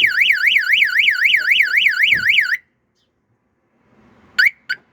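Car alarm siren warbling rapidly up and down, about four sweeps a second, then cutting off suddenly. After a short silence, the same siren gives a few brief chirps near the end.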